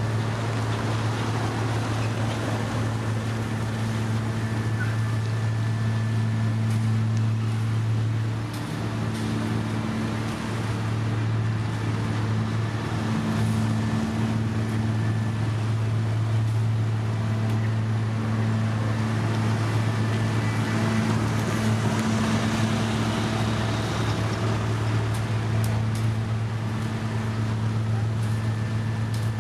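Heavy diesel road-construction machinery running steadily, a deep constant engine hum with mechanical noise over it and a brief dip in level about eight seconds in.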